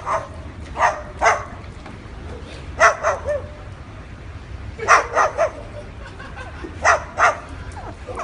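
White cockatoo imitating a dog's bark: short, harsh barks in twos and threes, about every two seconds.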